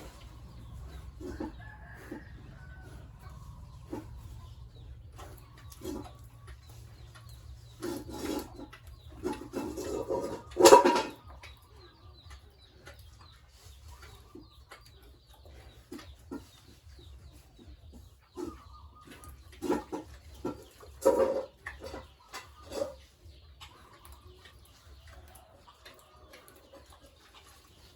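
Chickens clucking on and off, with scattered short calls; the loudest call comes about eleven seconds in, and a group of calls follows around twenty seconds in.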